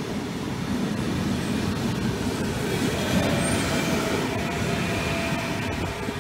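Trenitalia Rock double-deck electric train running past and away: a steady rumble of wheels on the rails. A faint whine joins about three seconds in, and the sound starts to fade at the end as the rear car goes by.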